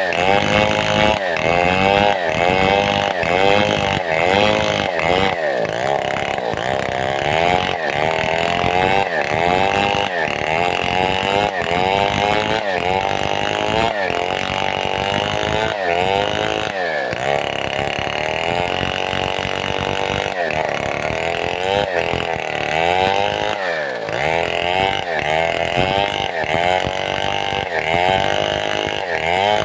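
Large two-stroke chainsaw of the Stihl 070 / New West 707 type running at high revs while cutting wood. The engine pitch sags and recovers over and over, about once a second, as the load changes.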